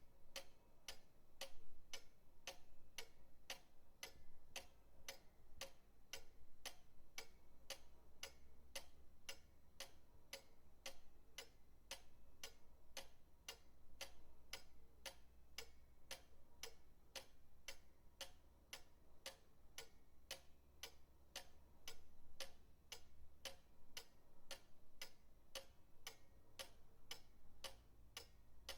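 Pendulum clock ticking steadily, about two ticks a second, in an even tick-tock rhythm, over a faint low hum.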